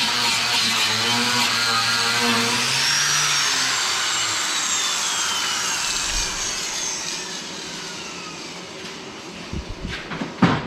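A power tool running with a thin whine that falls steadily in pitch over several seconds as it winds down, followed by a few knocks near the end.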